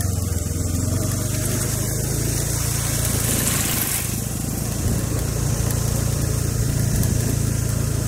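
Small motorbike engine running steadily while riding, with wind and road hiss over it that swells briefly about three seconds in.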